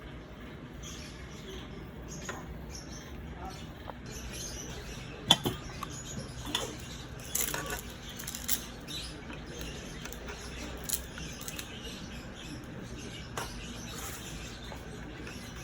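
Scattered small clicks and knocks of objects being handled, the sharpest about five seconds in and a few more together a couple of seconds later, over a steady low hum.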